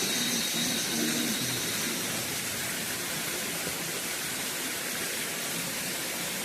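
Steady rushing of water from a stream, an even noise with no clear rhythm.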